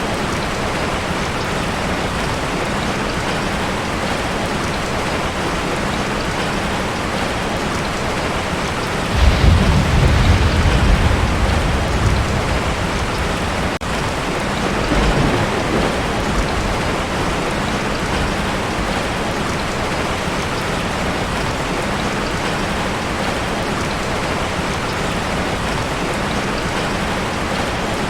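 Heavy rain falling steadily on a tin roof, with a roll of thunder about nine seconds in that rumbles for a few seconds and a weaker rumble a few seconds later.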